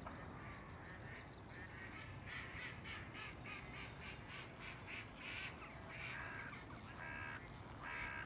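Faint bird calls: a quick run of short, harsh calls for a few seconds, then several longer pitched calls near the end.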